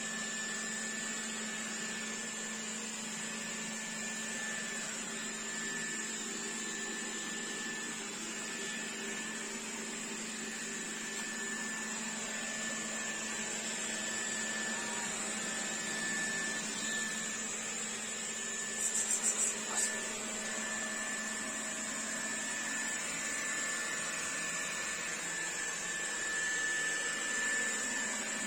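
Dreame D9 Max robot vacuum running steadily: a motor hum with a constant high whine. A brief cluster of clicks comes about two-thirds of the way through.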